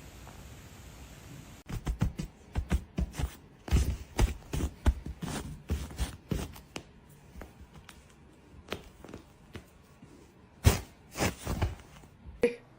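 A run of sharp, irregular knocks and taps that starts about a second and a half in. They come thick for several seconds, thin out, and return as a few louder thuds near the end.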